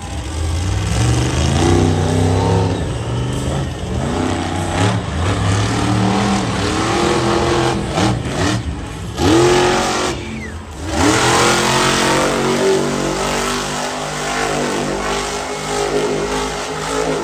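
Monster truck engine revving loudly, its pitch swinging up and down as the throttle is worked. It drops off and climbs sharply a few times near the middle, then runs steadier at high revs before cutting away at the end.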